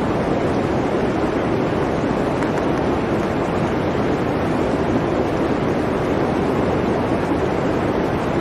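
Blizzard wind, a steady low rush of noise that holds even throughout.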